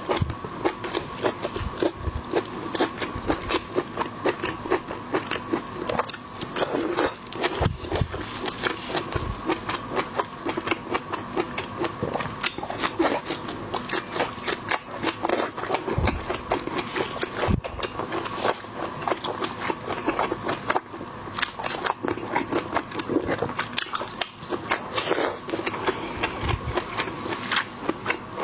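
Close-up eating sounds of seafood: rapid wet clicks, smacks and crunches of chewing and biting that run on without a break.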